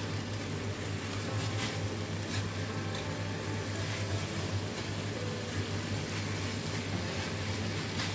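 Chicken pieces frying in a wok, stirred and scraped with a silicone spatula, over a steady low hum.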